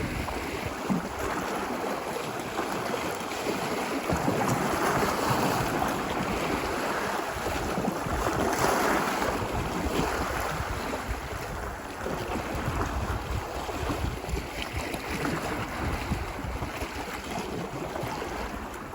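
Ocean surf washing ashore on a beach, a continuous wash that swells and eases, louder about five and nine seconds in. Wind rumbles low on the microphone, more so in the second half.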